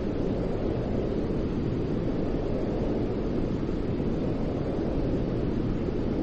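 Steady white noise, a deep, even rush with most of its weight low and no change in level or pitch.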